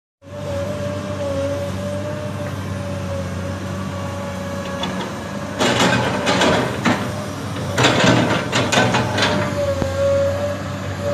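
Komatsu excavator's diesel engine running steadily with a high, slightly wavering whine on top. Twice in the middle, for about a second and a half each, a louder, harsh noisy stretch rises over it as the machine works.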